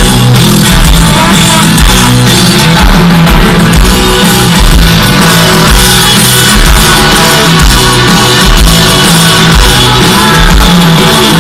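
Live rock band playing at full volume, with guitars and drums, heard from within the crowd. The recording is very loud and saturated.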